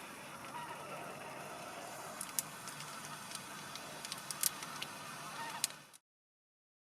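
A flock of migratory geese honking, many overlapping calls, with a few sharp ticks nearby; the sound cuts off abruptly about six seconds in.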